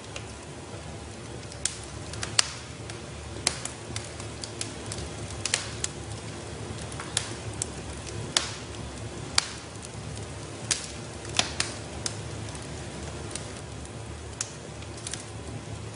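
Wood fire burning in a fireplace: sharp crackles and pops at uneven intervals, about one or two a second, over a steady low rumble of the flames.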